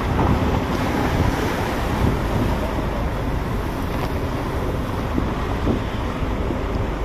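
Wind buffeting the microphone over the steady rush of sea waves, heard from a fishing boat on a surging sea.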